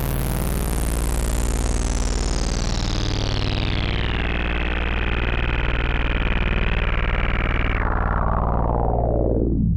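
Sequential/Oberheim OB-6 synthesizer patch: a noisy, distorted wash over a steady low drone, with a resonant filter sweep that falls slowly from very high, holds for a few seconds, then drops steeply low near the end.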